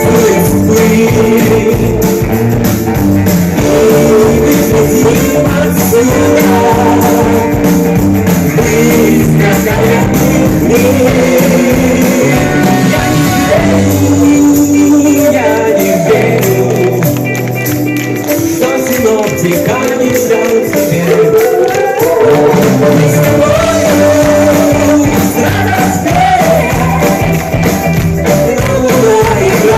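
Rock band playing a 1960s-style rock-and-roll song with singing. About halfway through, the low end drops back for a few seconds before the full band returns.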